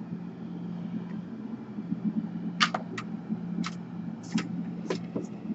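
Small sharp clicks and taps, about seven of them in the second half, from laptop parts and small tools being handled on a workbench, over a steady low hum.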